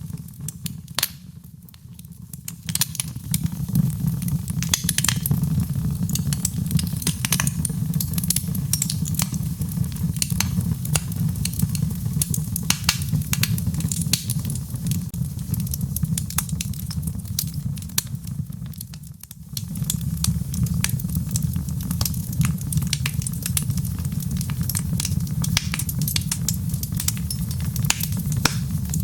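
Wood fire in a fireplace crackling and popping with many sharp snaps over a steady low rumble of the flames. The sound briefly drops away twice, about two seconds in and about two-thirds of the way through.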